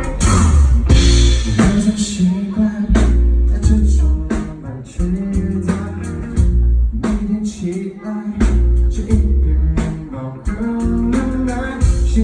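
Live rock band playing, with drum kit, bass and guitar; a cymbal crash lands at the start.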